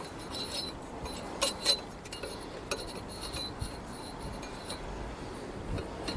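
Light metallic clinks and taps of tools and small parts being handled on a lawn mower engine, with two sharper clicks about a second and a half in.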